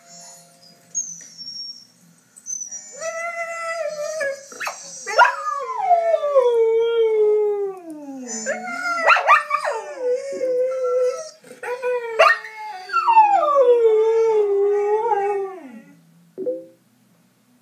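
Husky howling: three long howls, each sliding down in pitch, with short yips between them.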